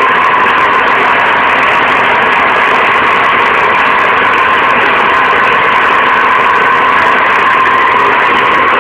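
BTR-60PA's GAZ-40P six-cylinder petrol engine running steadily, holding its revs.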